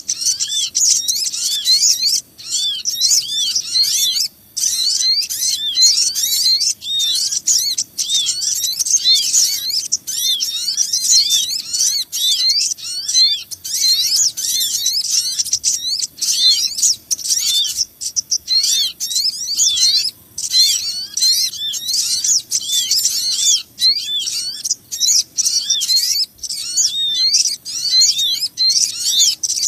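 Busy chorus of small birds chirping and chattering over one another, dense high-pitched notes with only brief pauses. It is a bird-lure recording (suara pikat) made to draw in small birds such as the sogon.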